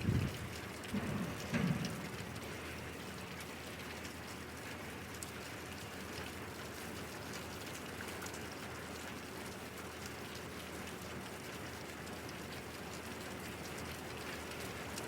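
Steady rain falling and pattering on surfaces, with a couple of brief low rumbles in the first two seconds.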